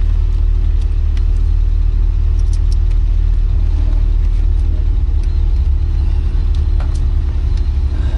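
Porsche 924's 2.0-litre four-cylinder engine running at steady revs, heard from inside the cabin as an even low drone, with a few light clicks and rattles over it.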